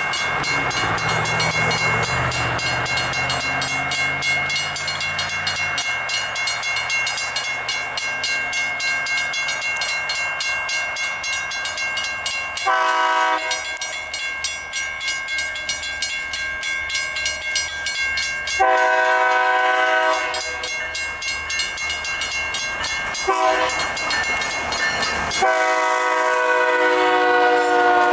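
Railroad crossing bells (WCH and WRRS mechanical bells) ringing rapidly and steadily. A CFNR freight locomotive sounds its horn for the crossing in four blasts: the first short, the second longer, the third short, and the last held and still sounding at the end.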